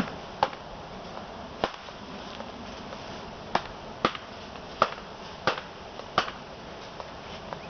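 Sharp wooden clicks and knocks, about eight at uneven spacing, from wooden beehive equipment being handled.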